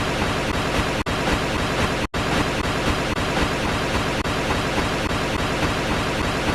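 Steady rushing hiss of space data played as sound, presented as the 'sound' of a dwarf planet system; it cuts out for an instant about a second in and again about two seconds in.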